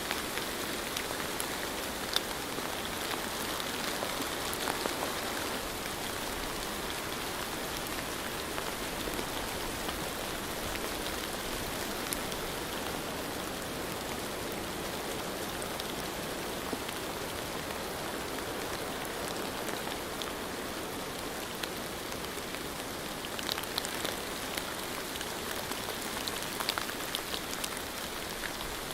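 Steady rain falling, with scattered sharper drop ticks; the ticks come more often about three quarters of the way through.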